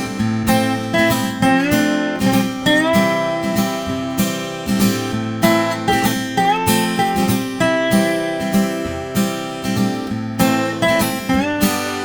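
Background music: an acoustic guitar strummed in a steady rhythm, with some notes sliding up in pitch.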